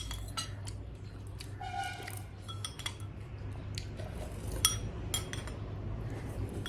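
Spoon or fork clinking against bowls, plates and a glass during eating: scattered light clicks, with one short ringing clink about two seconds in.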